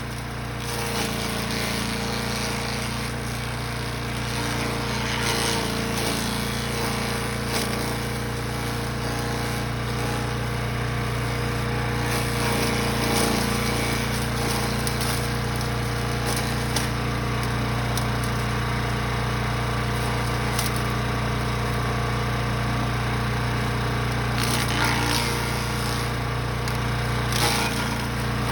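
Brush Master 3-in-1 chipper-shredder's gasoline engine running steadily, with short irregular cracks and knocks from material going through the machine.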